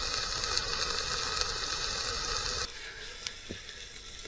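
Onions and peppers sizzling in a pan over a campfire, a loud steady hiss that drops suddenly to a quieter sizzle about two and a half seconds in.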